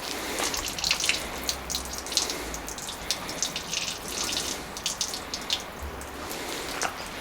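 Water dripping and splashing irregularly as it leaks out of a Vauxhall Zafira onto the driveway. The leak is typical of the car's blocked bulkhead drainage holes.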